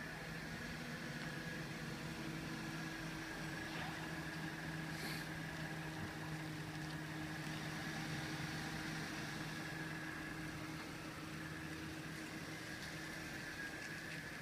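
A car engine idling at a steady pitch, the car waiting at a closed level crossing.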